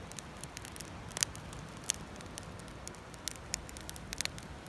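Wood campfire crackling, with scattered sharp pops and snaps at irregular intervals.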